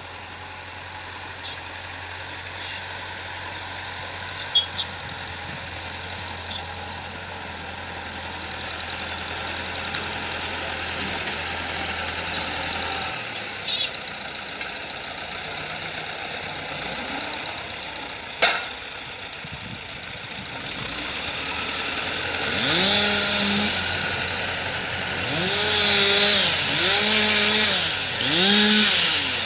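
An engine runs steadily in the background with a few sharp clicks, then, for the last several seconds, a chainsaw revs up and down repeatedly, becoming the loudest sound.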